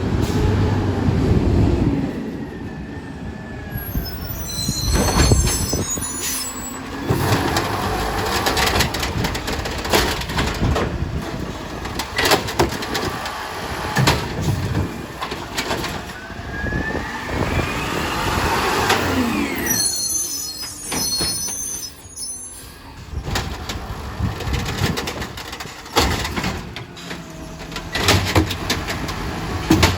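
Recycling garbage truck at work: its engine running under load, with a whine that rises and then falls a little past halfway, bins knocking and clattering, and short high squeals twice.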